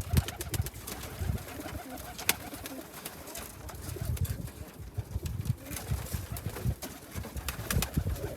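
Domestic pigeons in a loft cooing, several low, pulsing coos overlapping, with a few sharp clicks, the clearest about two seconds in.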